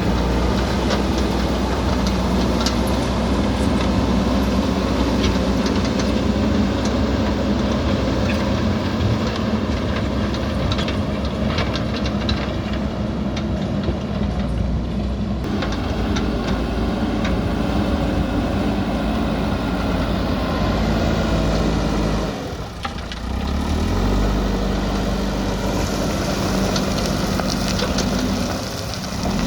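JCB backhoe loader's diesel engine running steadily under work, with many clanks and rattles through the first half. The engine sound drops briefly about 23 seconds in and again near the end.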